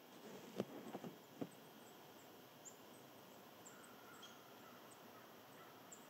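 Quiet outdoor ambience with a short rustle and four quick knocks about half a second to a second and a half in, the first the loudest. Faint, short, high bird chirps are scattered through.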